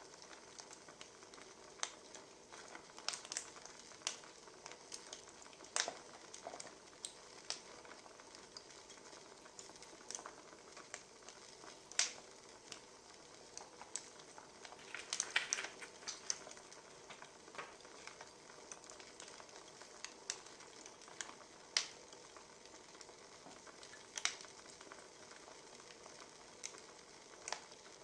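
Wood fire crackling: irregular sharp pops and snaps over a low, steady hiss, with a quick run of pops about halfway through.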